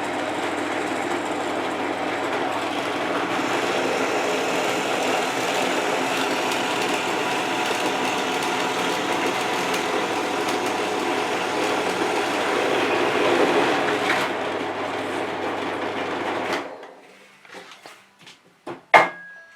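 Scheppach DP16VLS belt-driven bench drill running steadily at about 1300 rpm, its third of five belt speeds, with a low motor hum; it cuts off about 17 seconds in. A few sharp clicks follow near the end.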